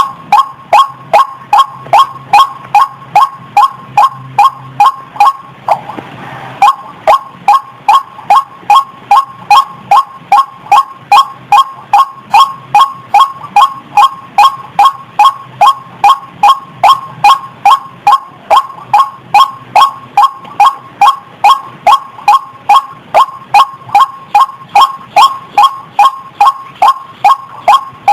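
White-breasted waterhen (ruak-ruak) calling: a long, even run of loud repeated notes, about two and a half a second, with a brief break about six seconds in.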